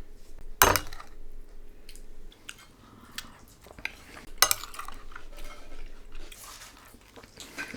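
Cutlery clinking against a dish during a meal, with sharp knocks about half a second in and again about four and a half seconds in and smaller ticks between, along with chewing.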